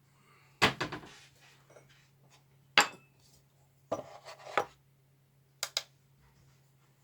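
Steel chef's knife handled and set down on a kitchen scale: knocks and metal clinks, a cluster about half a second in, a single sharp click near three seconds, more clatter around four seconds and two quick clicks near six seconds. A faint steady low hum runs beneath.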